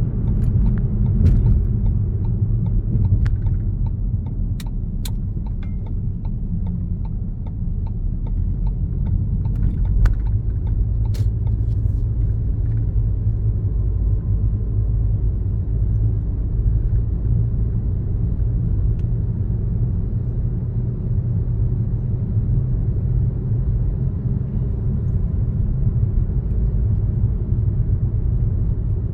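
Car driving along a road: a steady low rumble of tyres and engine, with scattered small clicks and ticks in the first dozen seconds or so.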